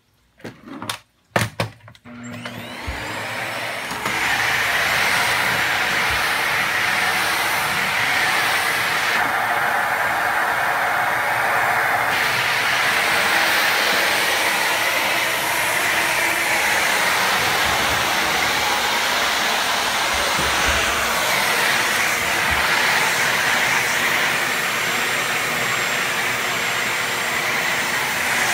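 Household vacuum cleaner being switched on: a few clicks, then the motor spins up over about two seconds and runs steadily with a loud, even hiss.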